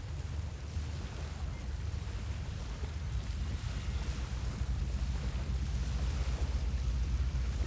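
Wind buffeting a phone microphone outdoors: a steady low rumble with a faint hiss over it, growing slightly louder toward the end.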